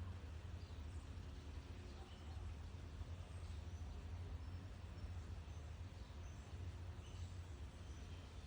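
Faint, scattered high bird peeps over a steady low hum.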